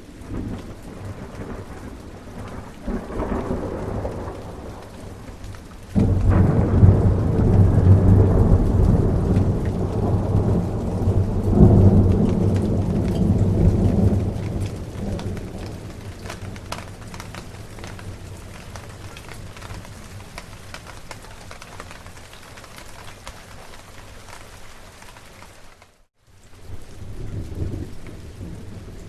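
Steady rain with thunder. A loud roll of thunder breaks in suddenly about six seconds in and rumbles on for several seconds before fading, with a weaker rumble before it and another near the end. The sound cuts out to silence for a moment a few seconds before the end.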